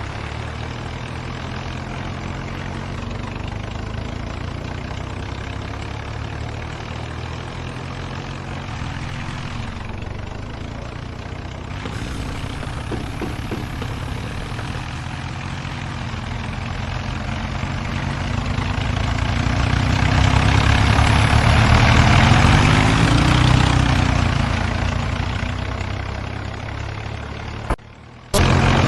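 John Deere and New Holland tractors' diesel engines running hard against each other in a tractor tug-of-war, labouring under heavy pulling load. They swell to their loudest about twenty seconds in, ease off again, and cut out briefly near the end.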